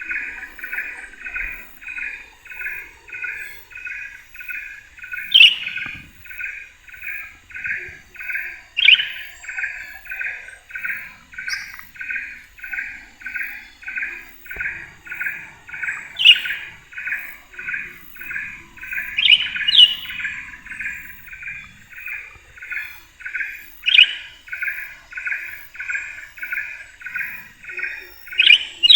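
Bird calls: a short call repeated very evenly, about two to three times a second, with a louder sharp chirp now and then, about seven in all.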